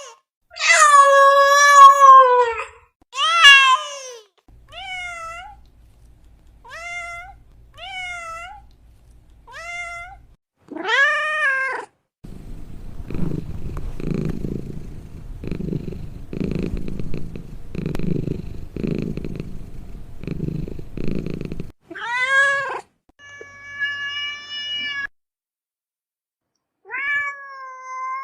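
Domestic cats meowing: loud, drawn-out meows at first, then a string of shorter, softer meows. Over about ten seconds in the middle comes a low, rhythmic purr, pulsing roughly once a second, before the meowing resumes near the end.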